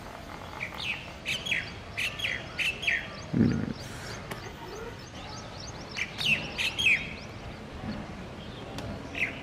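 A small bird chirping: quick runs of short, falling chirps in two bouts, one in the first few seconds and another about six seconds in. A short low sound comes about three and a half seconds in.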